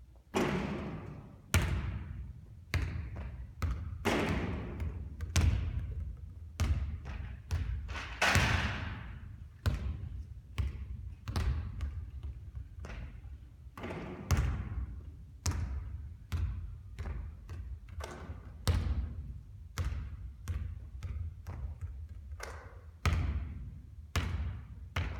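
Basketball bouncing and thudding on a court during three-point shooting practice: a steady run of sharp bounces, roughly one or two a second, some followed by a brief hiss.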